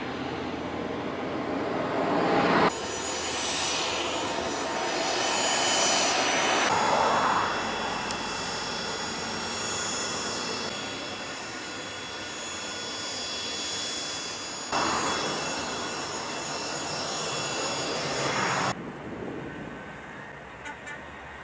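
Cessna Citation business jet turbofan engines, a rushing roar with a high steady whine, heard in short clips cut together so the sound changes abruptly every few seconds.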